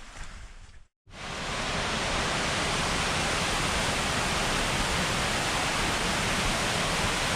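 Steady rush of river rapids, starting abruptly about a second in after a brief silence.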